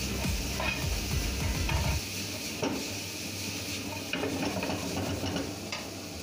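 Chicken and carrot strips stir-frying on high heat in a frying pan: a steady sizzle, with a metal spatula scraping and clicking against the pan. A low rumble stops about two seconds in.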